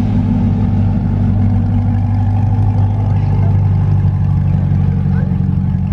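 Car engine idling close by, a steady low rumble that holds an even pitch without revving.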